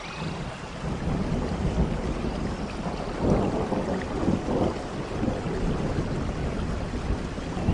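Steady rain falling in a forest, with a low rumble of thunder that builds about a second in and swells twice near the middle.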